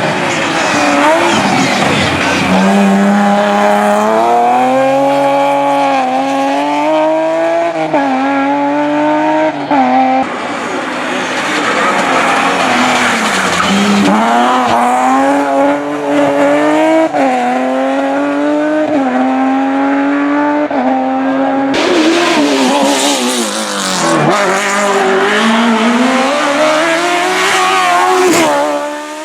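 Hillclimb race car's engine at high revs, its pitch climbing through each gear and dropping sharply four times under braking and downshifts.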